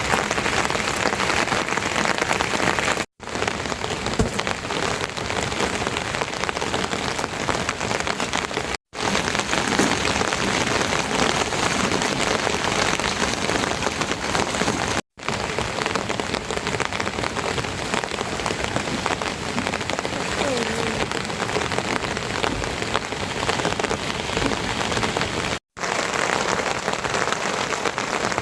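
Heavy rain pouring down steadily, a dense even hiss of drops hitting surfaces, cut by four brief silent gaps.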